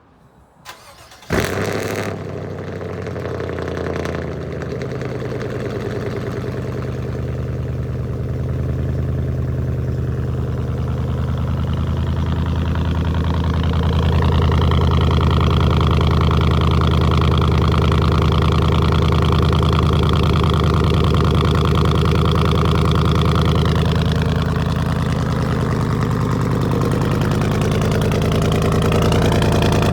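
Chevy 5.3-litre V8 with a true-dual straight-pipe exhaust (factory cats only, no mufflers or resonators) being started about a second in, catching with a loud flare, then idling. The idle speed rises about halfway through and settles back down near the end.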